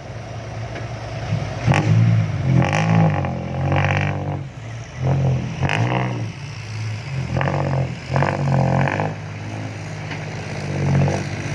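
Dump truck diesel engine revving in several surges, rising and falling in pitch.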